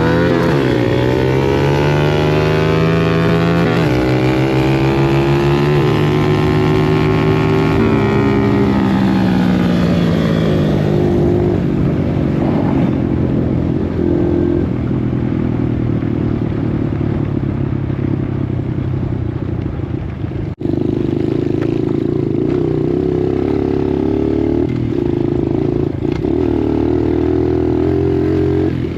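Dirt bike engine running under riding load, its pitch rising and falling repeatedly for about the first ten seconds, then holding steadier with small steps in pitch. The sound cuts out for a moment about twenty seconds in.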